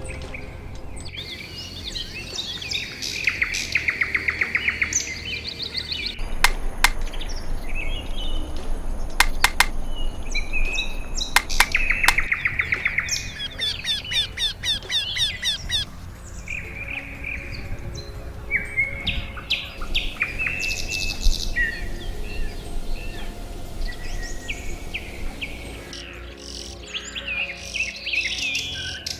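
Several birds chirping and trilling, with the calls overlapping, and a few sharp clicking notes near the middle.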